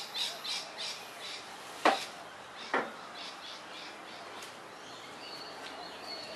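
Birds calling: a run of short high chirps about three a second, two sharp knocks around two and three seconds in, and faint thin whistled notes near the end.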